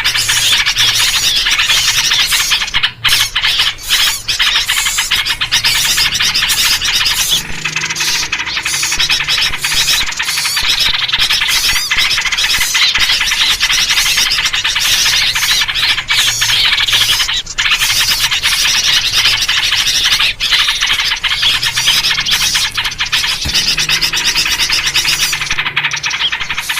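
Dense, unbroken chattering of many small birds making agitated, noisy calls, a lure chorus built around the yellow-vented bulbul (trucuk) and used to draw small birds in.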